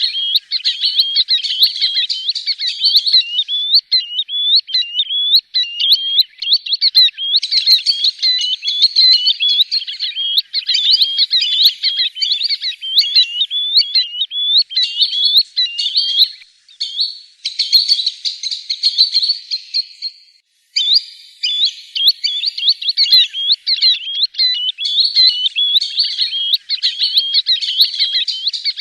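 Green sandpipers calling: a rapid, unbroken stream of short, high, upslurred whistled notes, with a couple of brief breaks in the second half.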